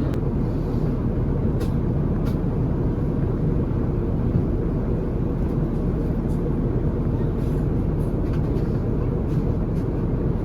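Steady airliner cabin noise in cruise aboard an Airbus A350: an even low rush of air and engines, with a few faint clicks.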